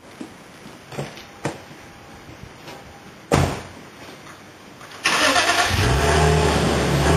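A few clicks and a louder knock, then about five seconds in a car engine starts and settles into a steady idle, its exhaust note coming through the muffler.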